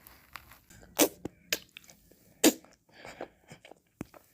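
Close-miked mouth sounds of eating and licking ice cream: a string of wet lip smacks and tongue clicks. The two loudest come about a second in and about two and a half seconds in, with softer ones between.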